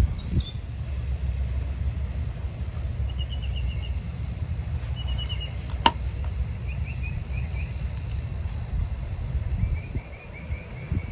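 Wind buffeting the microphone as a steady low rumble, with small birds chirping short trills of quick notes now and then. A single sharp click comes about six seconds in.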